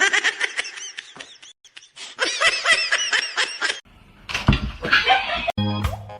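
A person laughing in a quick run of short bursts. Organ music starts shortly before the end.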